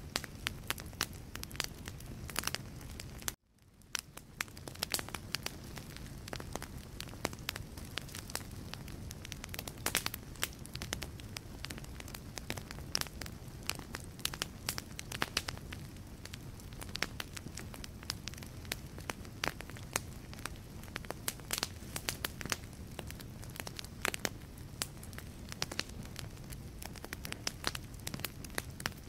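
Wood fire burning in a fireplace: logs crackling with frequent sharp pops over a low steady rush of flame. About three seconds in the sound cuts out abruptly and fades back in over about a second.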